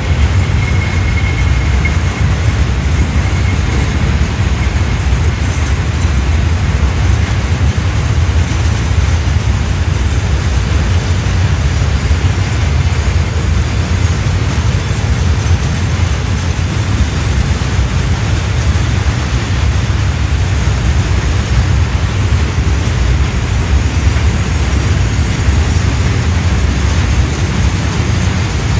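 Loaded container wagons of a freight train rolling past, a steady low rumble of steel wheels on the rails.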